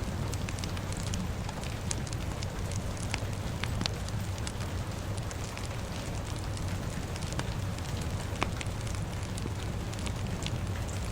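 Fire crackling with many scattered sharp pops, over a steady low rumble and hiss of rain.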